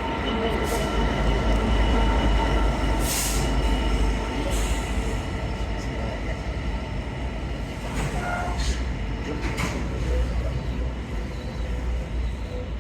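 A train running through the station: a steady low rumble with a continuous hum of steady tones, broken by a few sharp clicks and short wheel squeaks.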